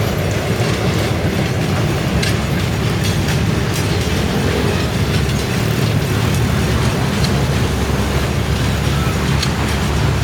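Freight train of loaded mineral hopper cars, hauled by an ALCO RSD-16 diesel locomotive, rolling past close by: a steady, loud low rumble with scattered sharp wheel clicks over the rail joints.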